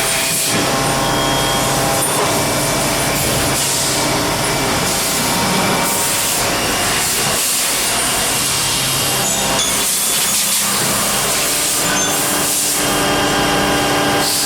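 Factory machinery running steadily: a constant loud hiss mixed with several steady humming tones.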